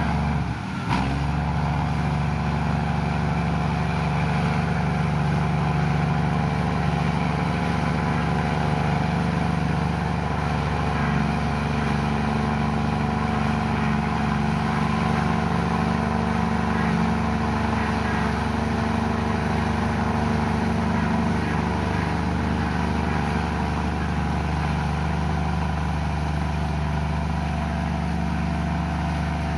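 Komatsu bulldozer's diesel engine running steadily at an even pitch.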